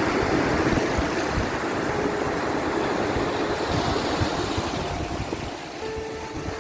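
Sea waves washing in and surging in a steady rush that swells and eases. A few faint held notes of soft background music sit underneath.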